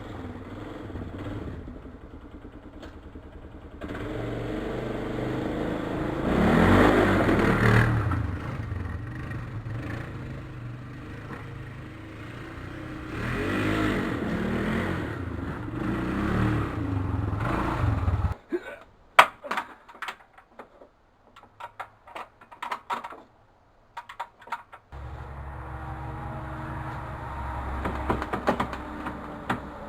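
Polaris Sportsman 500 ATV's single-cylinder four-stroke engine running through its stock exhaust, revved up twice. Near the middle it stops for several seconds, leaving scattered clicks and knocks, then it runs again.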